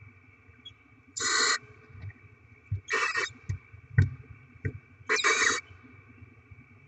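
Barn owls giving three short hissing screeches, the begging calls of owlets at feeding time, with a few soft knocks in between.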